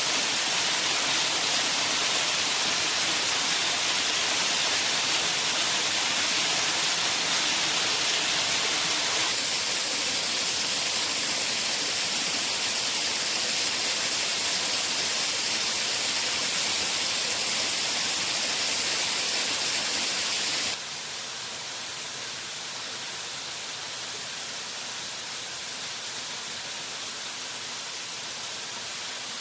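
Rushing water of a waterfall, a steady hiss. It drops suddenly to a quieter level about two-thirds of the way through, then runs on evenly.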